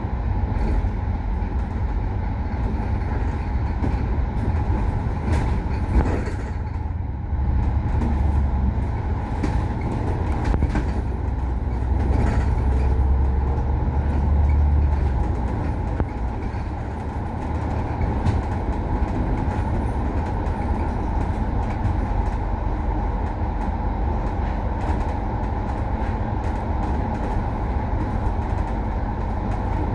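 KMB bus on route, its engine running with a steady low rumble that grows heavier for several seconds about a third of the way in. Scattered clicks and rattles sound over the rumble.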